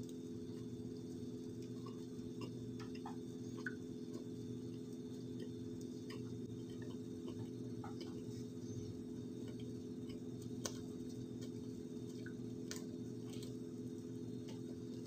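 Dry cornstarch being eaten off a metal spoon: scattered, irregular small clicks and crunches from the mouth, over a steady low hum.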